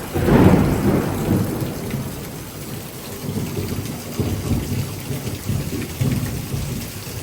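Thunder over heavy rain. A loud thunderclap peaks about half a second in and rolls on as lower rumbles that swell again around the middle and near the end, over the steady hiss of a downpour.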